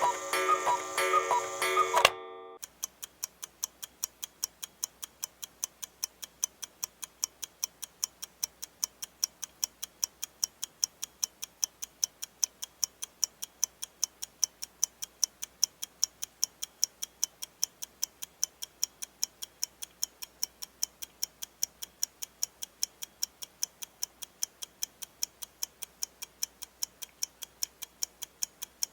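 A tuneful chiming sound with a beat stops abruptly about two seconds in. Then a clock ticks steadily, about four ticks a second.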